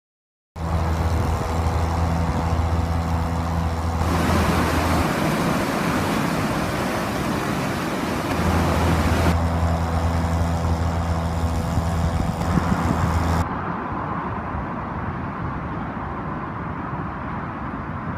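Canal boat's engine running at a steady low hum, with a steady rushing noise over it. The engine sound stops about 13 seconds in, leaving only the rushing.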